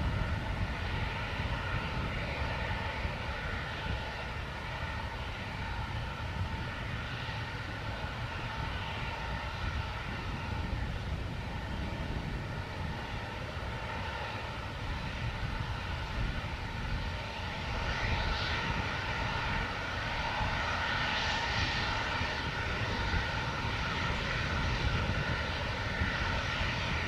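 Aircraft engines running steadily: a continuous whine over a low rumble, swelling slightly about two-thirds of the way through.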